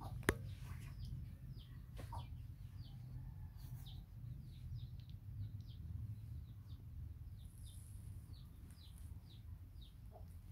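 Birds chirping in short, high, falling notes, repeated every fraction of a second, over a steady low hum, with one sharp click just after the start.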